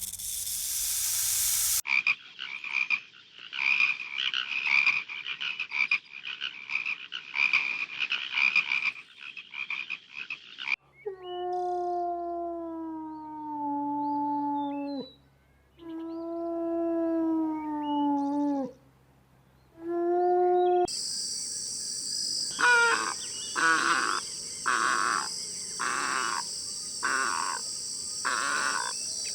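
A string of separate animal recordings. A hiss cuts off about two seconds in, followed by a chorus of frogs croaking for about nine seconds. Then come three long calls that each slide down in pitch, and near the end a series of repeated pulses over a steady high-pitched drone.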